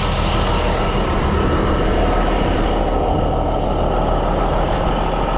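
Heavy truck engine idling steadily, with a burst of compressed-air hiss that starts sharply right at the start and fades away over about two and a half seconds.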